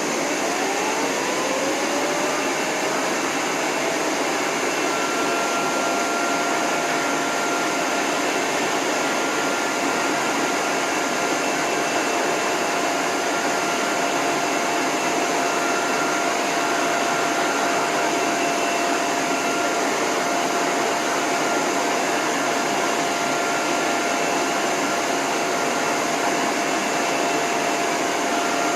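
Pet grooming hose dryer with its end nozzle off, switched on and spinning up: its whine rises in pitch over the first few seconds and then holds steady over a loud, even rush of air.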